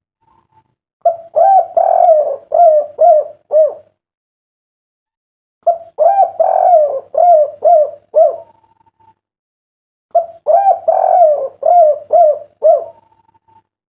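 Spotted dove (derkuku) cooing its 'kuk 3' song: three phrases of quick, rising-and-falling coos, each phrase a run of about six or seven notes, a couple of seconds apart.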